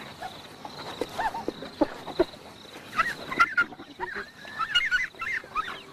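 Spotted hyenas calling: bursts of short, high-pitched squealing and giggling notes that come in quick clusters several times over.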